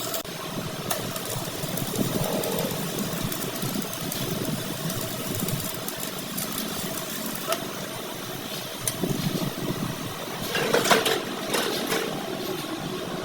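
Workshop machinery running steadily, with scattered clicks and knocks and a louder clatter near the end.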